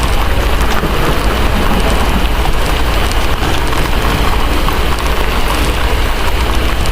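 Heavy, steady rain pouring down, with small drop ticks through it and a continuous low rumble underneath.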